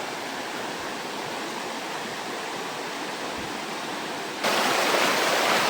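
Rushing water of a rocky jungle river, a steady hiss of rapids over stones. About four and a half seconds in it suddenly becomes louder and stays that way.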